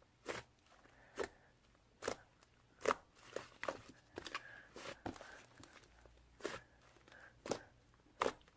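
Fluffy slime being pressed and worked by hand, making a dozen or so short, sharp crackling pops at irregular intervals, about one a second.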